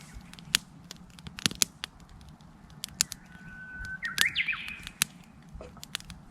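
Wood campfire crackling with sharp pops throughout. About three seconds in, a Japanese bush warbler sings once: a long steady whistled note, then a quick warbled flourish.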